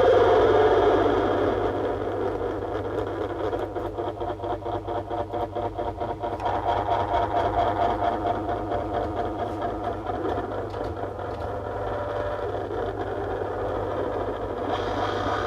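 Harsh noise from a chain of delay, filter and graphic EQ pedals played through a small Danelectro Honeytone amp: a dense, droning wall of noise over a steady hum, which breaks into a fast stuttering pulse for a couple of seconds near the middle before settling back into the drone.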